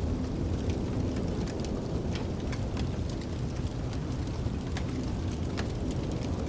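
Wood fire crackling in a fireplace: irregular sharp pops and snaps, several a second, over a steady low rumble of storm wind.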